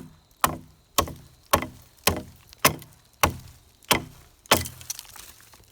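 Dead pine wood being chopped: about nine sharp blows, evenly spaced at roughly two a second, each with a short falling ring after it.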